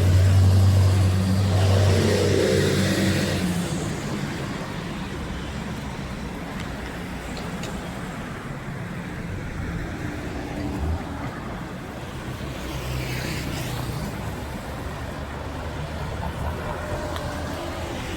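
Road traffic: a motor vehicle's engine hums loudly for the first few seconds, then fades into steady traffic noise, with a car passing about thirteen seconds in.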